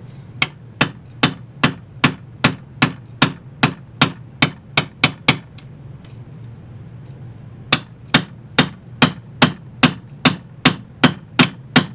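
Hammer tapping a punch to drive old hinge tacks through a wicker basket's wooden frame, in steady sharp blows about two and a half a second. The blows stop for about two seconds midway, then resume at the same pace.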